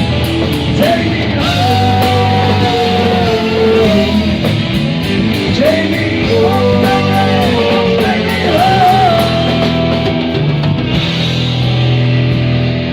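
Live rock band playing a break between sung lines: a sustained, bending lead melody over bass, guitar and drums with regular cymbal hits.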